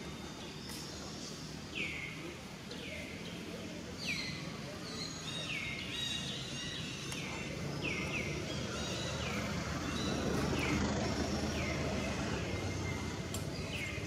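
A bird calling over and over: short whistles that slide down in pitch, often in pairs, a second or two apart. A steady outdoor background noise runs underneath.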